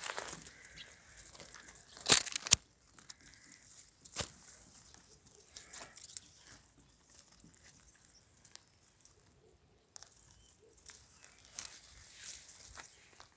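Irregular crunching and rustling with scattered sharp clicks, the loudest a pair of cracks about two seconds in.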